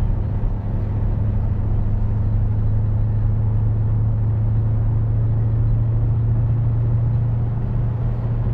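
Porsche Cayenne Turbo's V8 running through a Tubi aftermarket exhaust, a steady low drone at even revs, heard from inside the cabin while driving.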